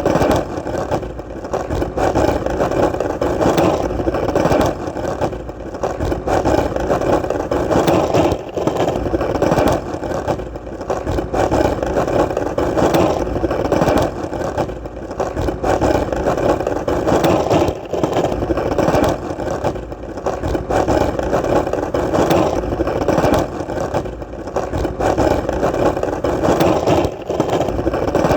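Skateboard wheels rolling on hard ground: a continuous grainy rumble that swells and eases every few seconds, with short drops and frequent small clicks.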